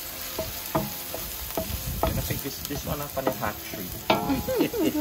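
Onion, scallion and wiri wiri pepper sizzling as they fry in a large metal pot, with a spatula scraping and knocking against the pot bottom as they are stirred.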